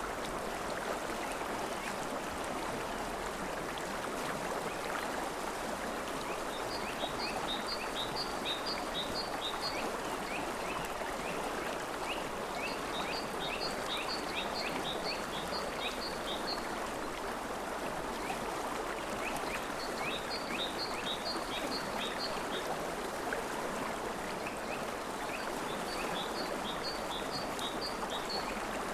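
River water flowing in a steady rush. Over it, a bird sings four times, each a run of short, high, quickly repeated notes lasting a few seconds.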